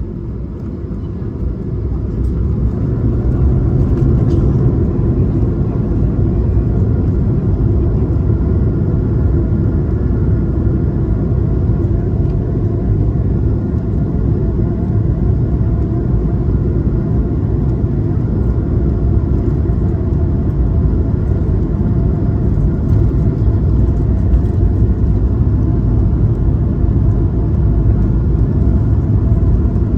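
Cabin noise of an Airbus A220-300 heard from a window seat: its Pratt & Whitney PW1500G geared turbofan engines swell to a loud, steady rumble over the first two or three seconds, the sound of thrust coming up for takeoff.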